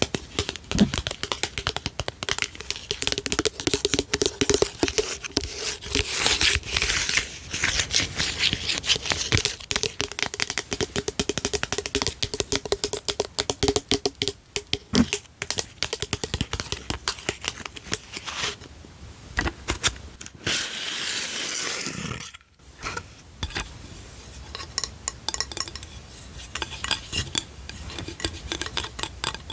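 Quick runs of tapping and clinking on small hard household objects, in a close-up ASMR recording. There is a faint steady ring under the taps in the first half, and a brief scraping rustle a little before two-thirds of the way in.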